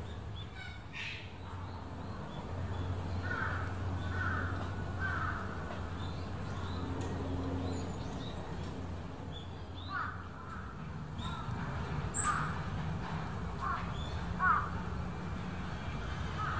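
Short bird calls over a steady low hum: three in quick succession about three seconds in, then several more scattered through the second half.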